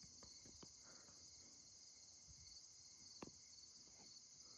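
Faint steady chorus of night crickets chirping in a fast even pulse, with a faint click about three seconds in.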